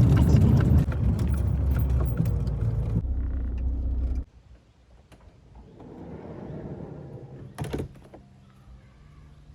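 Camper van engine running, heard from inside the cab, then switched off about four seconds in. A single sharp clunk near the end, with keys jangling.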